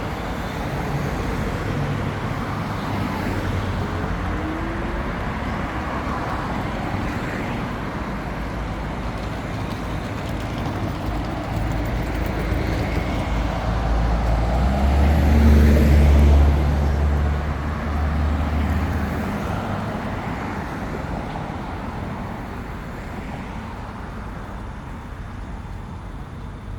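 Road traffic along a city street, a steady wash of passing cars. About halfway through a heavy vehicle passes close, its low engine rumble swelling to the loudest point and then fading away.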